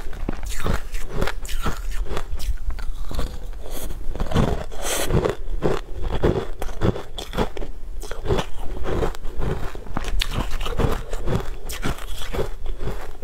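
Close-miked chewing and biting of food, a steady run of moist crunching chews at about three a second, picked up by a lapel microphone.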